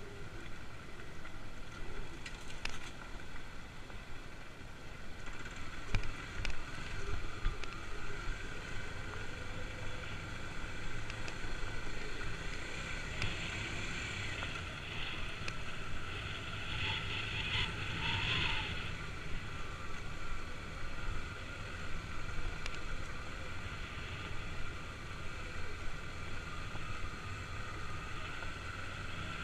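Kawasaki KLX250S single-cylinder four-stroke engine running steadily while the bike is ridden along a trail, with a few knocks in the first several seconds.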